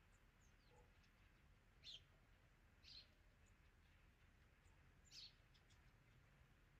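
Near silence with a few faint, short bird chirps.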